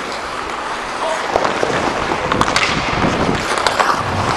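Ice skates scraping over the ice during hockey play, with several sharp clacks of sticks and puck.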